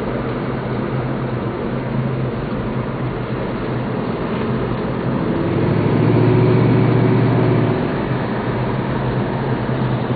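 A 1966 Ford Mustang's 289 V8 running steadily while driving, heard from inside the cabin along with road noise. The engine note grows louder for about two seconds midway, then settles back.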